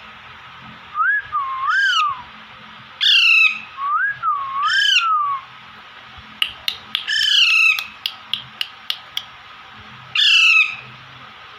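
Young Alexandrine parakeets calling: about five loud, harsh squawks, each falling in pitch. Between them come two smooth whistled notes that rise and fall, and a run of sharp clicks near the middle.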